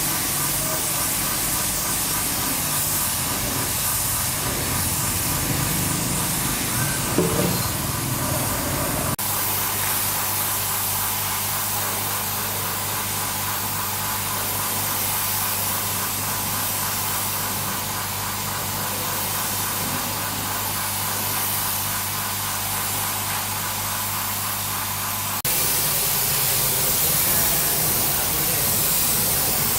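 Steady hissing spray that runs without pause. The sound changes abruptly twice, about 9 seconds in and again about 25 seconds in, and a steady low hum sits under the middle stretch.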